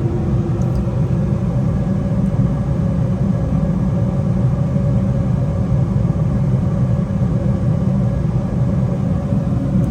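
American Standard gas furnace running: a steady low rumble of the burners and fans, even throughout.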